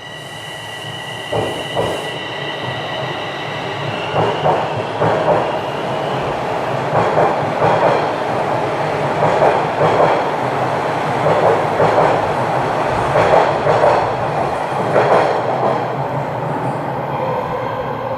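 Toronto Rocket subway train running through the tunnel, heard from on board. A high steady whine fades out in the first few seconds while the rumble grows louder. The wheels clack over the rail joints in quick pairs every second or two.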